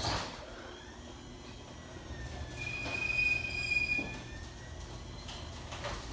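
LiftMaster WLED garage door opener starting with a clunk and running, raising the door with a steady motor hum. A high squeal comes in for about a second and a half around the middle.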